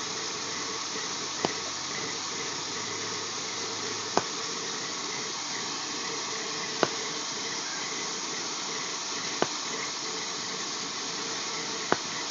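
Steady hiss of water spraying from a leaking pressurized waterline. Five sharp ticks at even intervals, about every two and a half seconds, sound over it.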